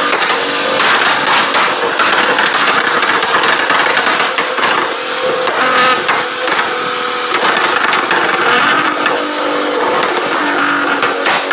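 Nissan GT-R R35's twin-turbo V6 running loud through an extreme exhaust, its pitch rising and falling as it revs. Sharp pops and crackles run throughout.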